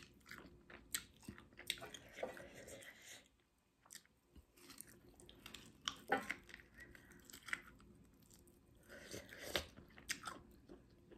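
Close-up eating sounds of someone chewing pork rib meat off the bone: soft smacking and clicking mouth noises at irregular intervals, with a couple of short pauses.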